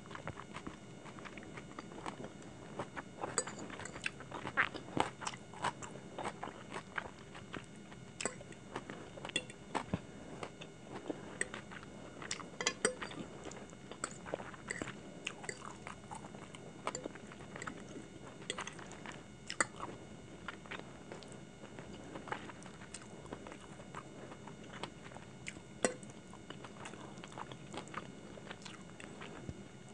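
Close-miked chewing of a mouthful of Chinese food (hakka noodles, fried chicken dumplings, chicken Manchurian), with many short, sharp mouth clicks and small crunches.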